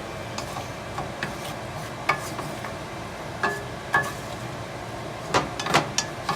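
A utensil clinking and scraping against a pan as chicken is stirred and coated in sauce, in scattered sharp knocks, some ringing briefly, with a quick cluster near the end. A kitchen range-hood vent fan runs steadily underneath.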